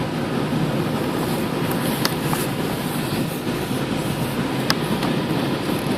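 Steady cabin noise of an airliner in its climb after takeoff: a dense, even rush of engine and airflow noise, with a couple of faint clicks from inside the cabin.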